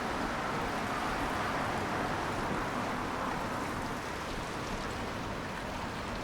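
Steady hiss of traffic on wet streets, tyres swishing on wet road, swelling slightly in the first couple of seconds and then easing.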